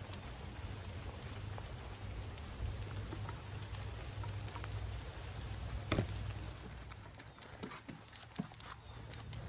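Light rain falling, with scattered drops ticking close by over a low rumble that fades about seven seconds in. One sharper tap stands out about six seconds in.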